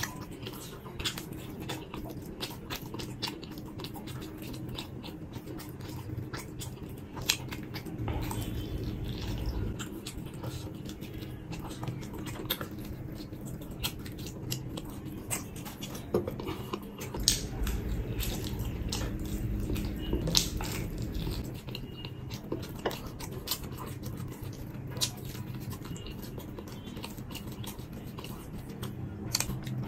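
Close-miked eating of pizza: wet chewing, biting and lip smacks with many sharp clicks, over a steady low hum.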